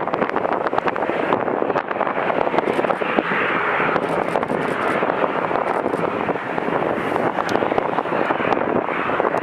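Jet airliner's engines running steadily during takeoff, mixed with wind buffeting the microphone, which crackles throughout.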